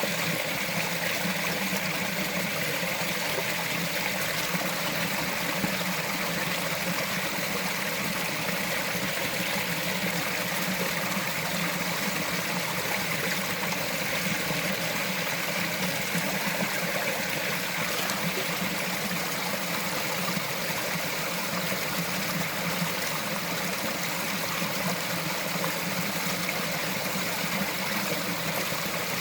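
Small mountain forest stream flowing and trickling steadily.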